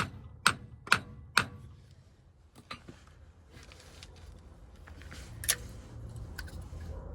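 Hammer blows knocking a Ram 1500's front axle shaft loose, about two a second: four sharp strikes in the first second and a half, then stopping. After that come a few faint metal clinks and one sharper knock about five and a half seconds in.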